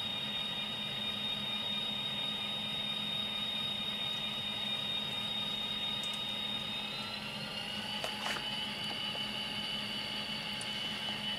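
Tsunami sound decoder in a model diesel locomotive playing EMD 645 diesel engine sound through its small speaker: a steady engine sound with a high whine. About seven seconds in the whine shifts into two tones, and a sharp click follows.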